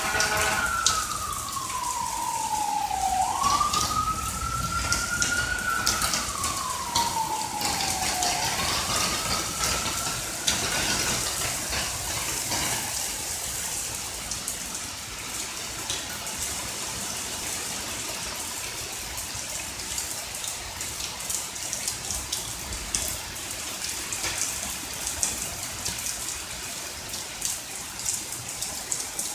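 Steady rain falling, with scattered drips, while an emergency vehicle's siren wails slowly up and down in pitch, fading out after about eleven seconds, leaving only the rain.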